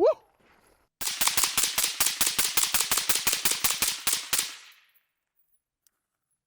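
Rapid string of about two dozen suppressed 5.56/.223 shots, roughly eight a second, from an 11-inch gun fitted with a B&T Tiger 22LR titanium rimfire suppressor, stopping abruptly.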